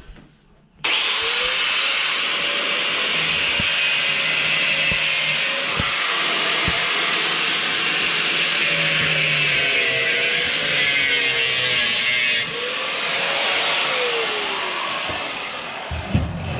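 Electric grinder starting up about a second in and grinding metal for about fifteen seconds, a loud, steady, hissing grind with the motor's pitch dipping as it is pressed into the work, then winding down near the end.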